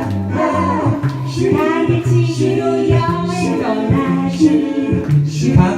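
A cappella vocal group singing in harmony, several voices on wordless syllables over a sung bass line.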